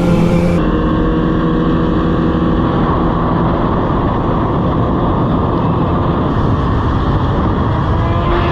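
Motorcycle at steady freeway speed: heavy wind rush on the helmet-mounted microphone, with the engine's steady drone underneath.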